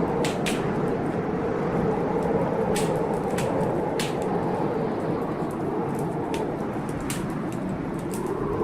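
Heavy blizzard wind blowing steadily, with a wood fire crackling over it in sharp, irregular pops about once a second.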